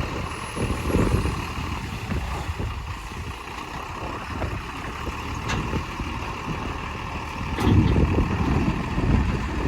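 Heavy diesel engine running steadily, rising in level about eight seconds in.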